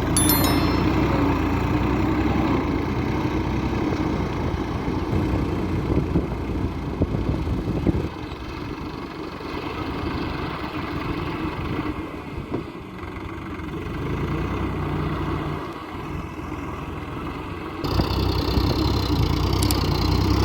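Tractor diesel engine running steadily, dropping quieter about eight seconds in and coming back louder near the end.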